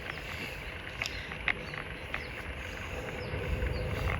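Bicycle riding along a path: steady tyre and wind rumble with scattered sharp clicks and rattles.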